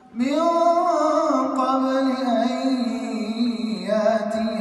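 A man reciting the Qur'an in melodic tajweed style, holding one long ornamented vowel that rises at the start and then wavers in pitch.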